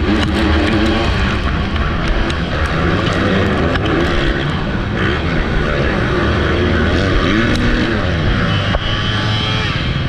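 Motocross bike engine revving up and down over and over as the rider accelerates and shifts, heard through a helmet-mounted camera's microphone over heavy wind noise, with scattered sharp ticks.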